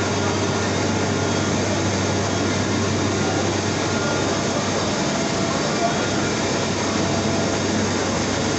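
Steady drone of a moving bus heard from inside the cabin: an even road and engine noise with a constant low hum.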